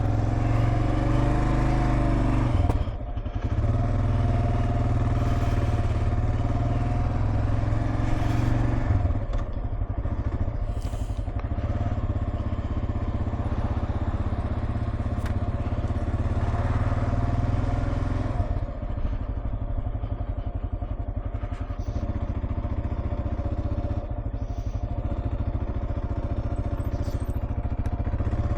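Kawasaki KLR 650's single-cylinder engine running steadily under way on the road, with a short dip in engine sound about three seconds in.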